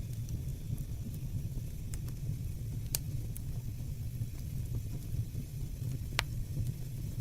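Fire burning with a steady low rumble and occasional sharp crackles and pops, two louder pops about three and six seconds in.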